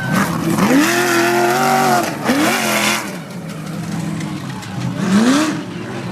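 An off-road race truck's engine revving hard. Its pitch climbs and then drops back several times, over a rushing noise.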